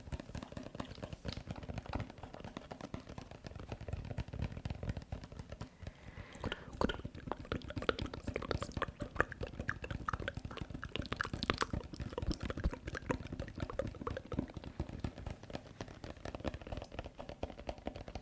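ASMR wet mouth sounds: a dense run of rapid clicks and smacks close to the microphone.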